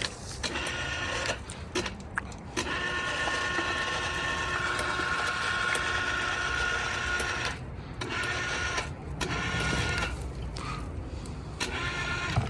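Mechanical whine from the lifting gear lowering an LS 6.0 V8 engine. It runs in stretches with short stops: a long run of several seconds in the middle, then shorter runs, with a few sharp clicks.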